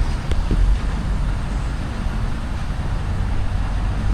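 Steady low vehicle rumble with a faint knock or two about half a second in.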